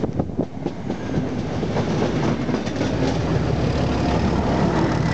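Train passing close by: the coaches' wheels click over rail joints in the first second, over a continuous low rumble. Near the end the Class 31 diesel locomotive at the rear draws level, its engine running as it propels the train.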